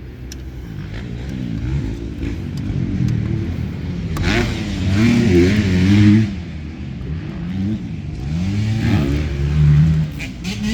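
Dirt bike engines revving, their pitch rising and falling again and again, loudest about four to six seconds in and again just before the end.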